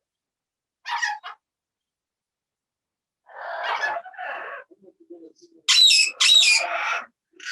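Parrots squawking: a short shrill call about a second in, a lower, speech-like run of calls from about three to four and a half seconds, then two loud harsh squawks near the end.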